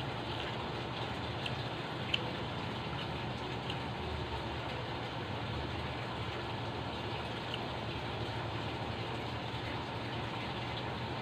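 Steady background hiss with a low hum under it, and a few faint clicks, one sharper tick about two seconds in.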